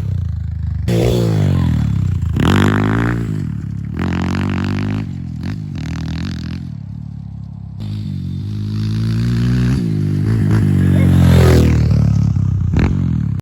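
Dirt bike engine revving, its pitch climbing and falling again and again as the throttle is worked, with a couple of sudden breaks in the sound.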